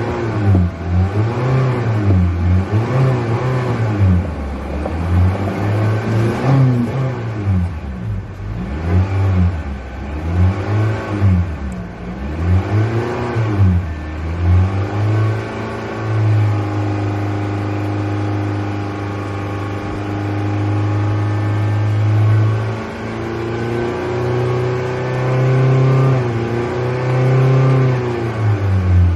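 Car engine being revved in quick blips, its pitch rising and falling over and over, then held at a steady raised speed for several seconds about halfway through, before further shorter revs near the end.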